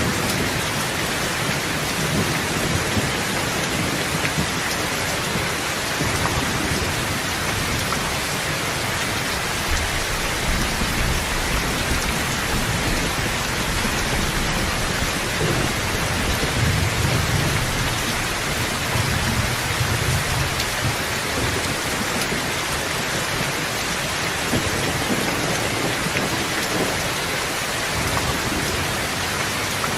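Steady heavy rain falling in an even hiss. A low rumble of distant thunder swells through the middle.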